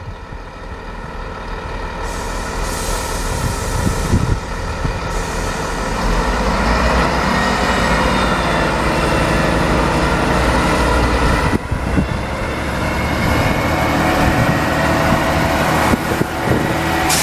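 Class 158 diesel multiple unit pulling away, its underfloor diesel engines under power and growing steadily louder over the first several seconds, with a faint high whine rising slowly in pitch.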